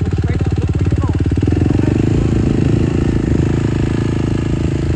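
Dirt bike engine running close by, a steady fast firing pulse at low revs, with faint voices behind it.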